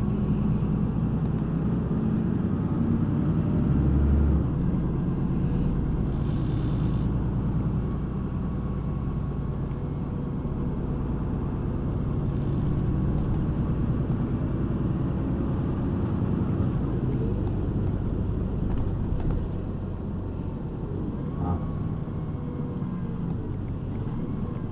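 Heard from inside a city bus: steady engine and road noise as the bus runs. A short hiss comes about six seconds in and a fainter one near twelve seconds.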